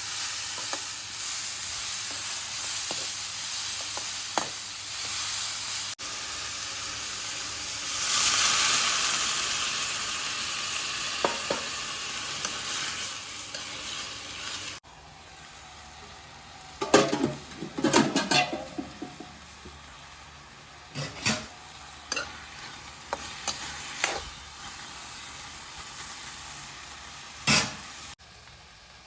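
Food frying and sizzling in a pan: a steady hiss that gets louder about eight seconds in and cuts off abruptly around halfway. Scattered knocks and clatters follow.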